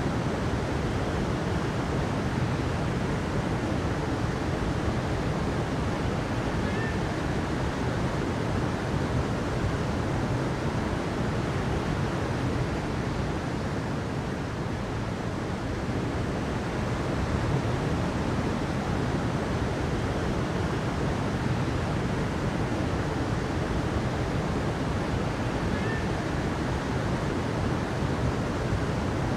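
Steady rushing water, a constant even wash of sound, heaviest in the low range, with no swells or breaks.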